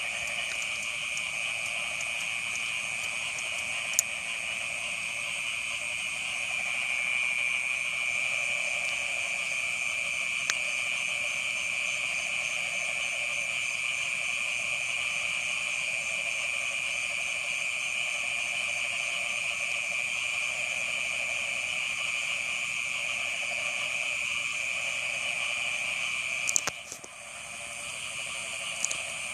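Chorus of frogs calling back and forth, a continuous high-pitched trilling over a lower steady layer. A few sharp clicks break in; after a cluster of them near the end the chorus briefly drops away.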